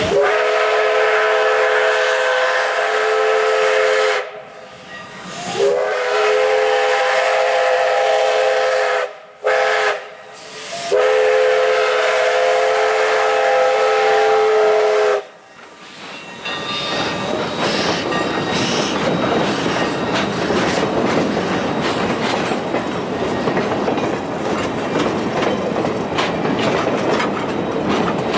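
Chime steam whistle of Western Pacific 165, an Alco 0-6-0 steam locomotive, sounding long, long, short, long, a chord of several notes. About a third of the way through it stops and the locomotive's steady rushing steam and running noise takes over.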